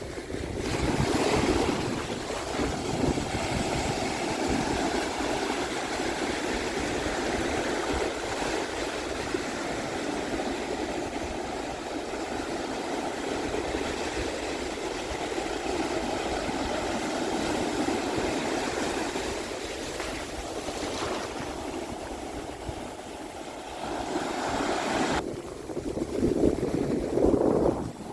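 Pacific Ocean surf breaking and washing up a sandy beach: a steady rushing wash, with waves swelling louder about a second in and again near the end.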